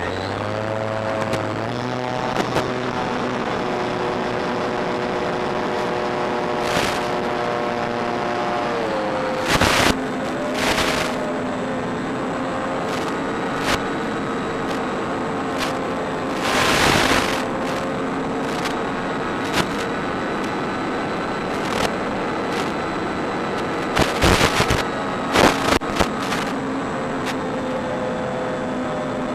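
Electric motor and propeller of a Durafly Bf 109 E-4 RC model plane running in flight, with a steady whine whose pitch rises in the first couple of seconds, holds, then dips about nine seconds in as the throttle changes. Several loud rushing bursts of noise cut across it, around ten, seventeen and twenty-five seconds in.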